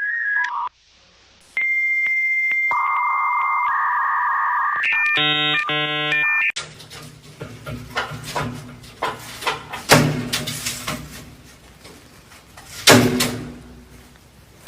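Steady electronic beep tones, ending in a louder tone of several pitches together, then about eight seconds of scattered knocks and clicks.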